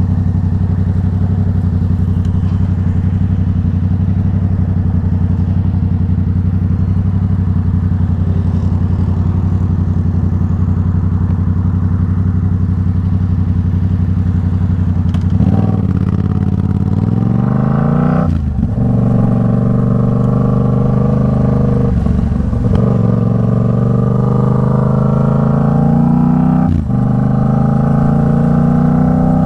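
Yamaha MT-07's parallel-twin engine with an Arashi exhaust, running steadily at low revs for about fifteen seconds. It then accelerates through the gears, its pitch climbing and dropping back at each of about three upshifts.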